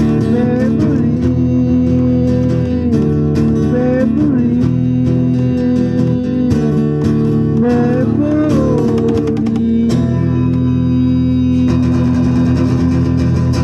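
Live blues band playing, with a guitar holding long notes that bend up and down over a steady backing.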